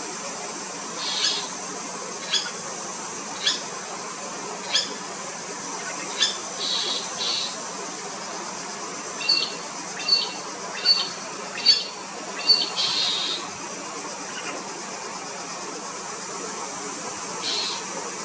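Apostlebirds giving short, harsh, grating calls at uneven intervals, with a quicker run of calls about halfway through, over a steady high hiss.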